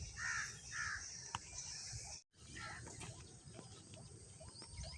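Outdoor ambience of small birds chirping and insects buzzing steadily, with two short calls near the start. The sound drops out almost completely for a moment just after two seconds.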